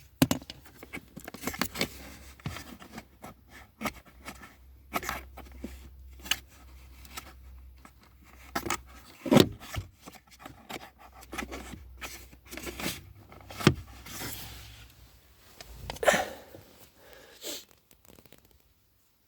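Hands working on small plastic parts and tools: a string of irregular clicks, knocks and scrapes, a few sharper knocks around the middle, over a low hum.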